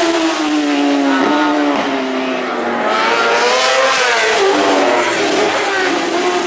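Superbike racing motorcycles at high revs on a road circuit, the engine pitch sliding down over the first couple of seconds, rising again near the middle, then falling once more.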